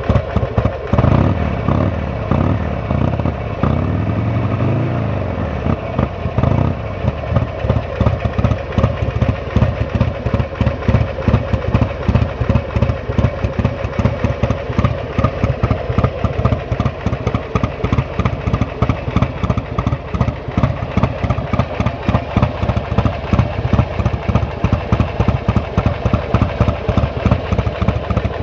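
Buell XB9R's air-cooled V-twin running through a race exhaust, revved up and down a few times in the first seconds, then idling with a quick, even, lumpy pulse.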